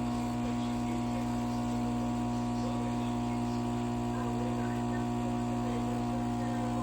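Steady machine hum: a constant drone made of several fixed tones that does not change.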